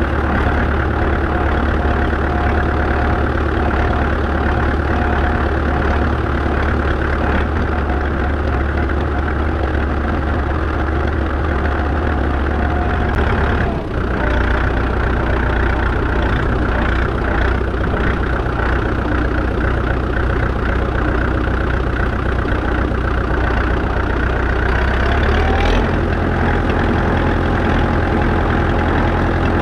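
1947 McCormick-Deering ODS-6 orchard tractor's four-cylinder diesel engine running steadily under way, heard from the tractor. Its low note dips briefly about halfway through and settles at a different pitch, then shifts again near the end.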